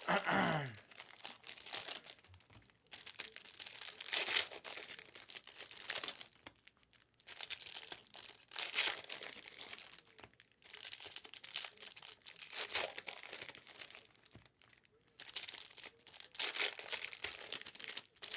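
Crinkling and rustling of plastic trading-card pack wrappers and cards being handled, in irregular bursts with short pauses. A brief falling whoosh-like sound at the very start.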